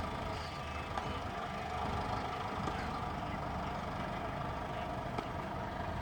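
A tractor's diesel engine running steadily at an even speed.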